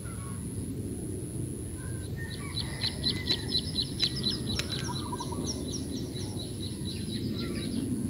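A bird calling a rapid series of short, high, sharp notes, about five a second, starting about two seconds in and stopping near the end. Under it runs a steady low background noise.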